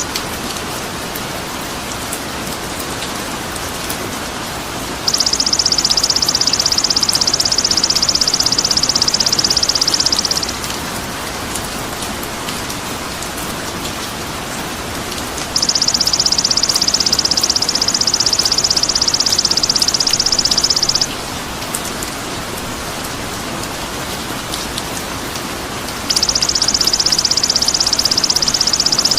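A high, rapid buzzing trill lasting about five seconds, repeated three times about ten seconds apart, over a steady rain-like hiss. This is a looped masteran track for training songbirds.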